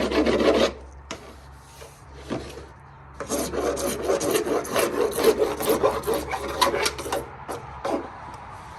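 A hand file rasping along the cut edge of a PVC pipe in quick back-and-forth strokes, deburring the sharp edge. The filing comes in two spells with a pause of about two seconds between them, and ends with a couple of single strokes near the end.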